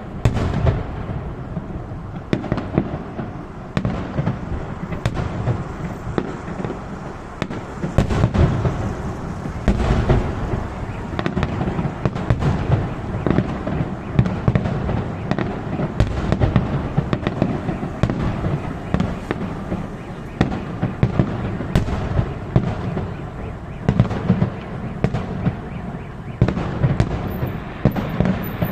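Fireworks salute: a continuous barrage of bangs and crackling, with frequent sharp reports over a low rumble.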